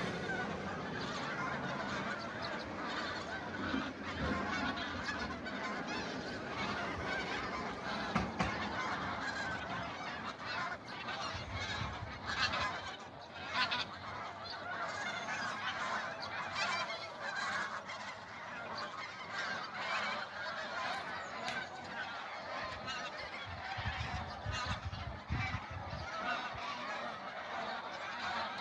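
A large flock of wild geese calling together: a continuous chorus of many overlapping honks.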